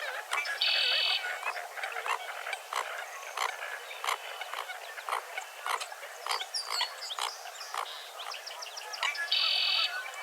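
Wetland dawn chorus: frogs croaking in short repeated calls, with birds chirping among them. Two loud buzzy calls stand out, one about half a second in and one near the end.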